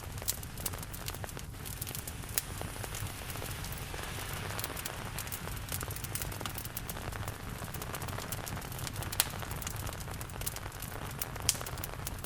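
Steady rain mixed with a wood fire crackling, sharp pops and snaps scattered irregularly over the even hiss of the rain, with two louder pops in the latter part.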